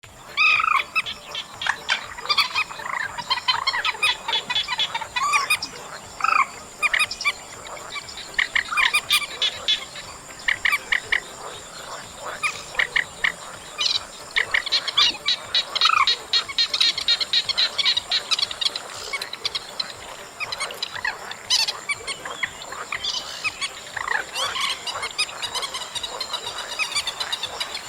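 Repeated harsh, croaking calls of the trích ré, a Vietnamese waterbird, from a recording used as a trapping lure. The calls come in quick runs, with a steady high insect trill underneath.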